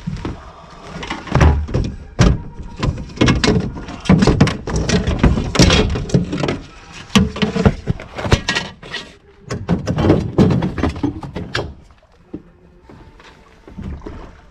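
A run of irregular knocks, thumps and clattering, like hard objects being handled and set down, that stops about twelve seconds in.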